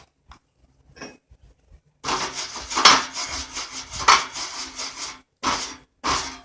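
Wire-feed welder laying a bead: a few small ticks, then about three seconds of steady crackling arc from about two seconds in, followed by short half-second bursts as the trigger is pulled and released in a stitch of quick welds.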